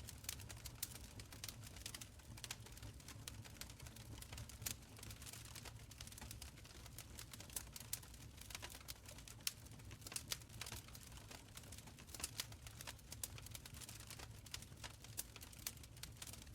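Wood fire burning in a stone fireplace, crackling quietly with frequent sharp, irregular pops over a low steady rumble of the flames.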